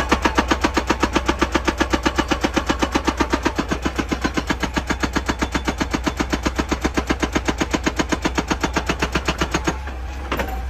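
Excavator-mounted hydraulic breaker hammering rock in a fast, steady rhythm of about eight blows a second, over the low drone of the excavator's engine. The hammering stops about a second before the end, and one more blow follows shortly after.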